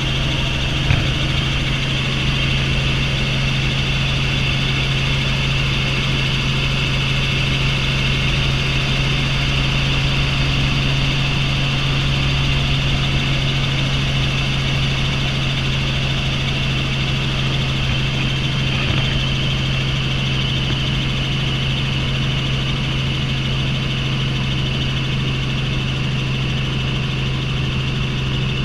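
Helicopter in flight heard from inside the cabin: a steady, unchanging low drone with a high whine above it.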